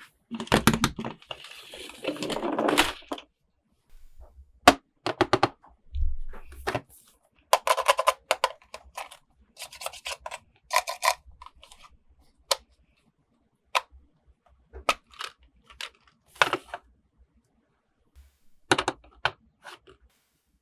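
Plastic toy packaging and small plastic toy parts being handled: a crinkly rustle in the first few seconds, then scattered sharp clicks and taps with short pauses between.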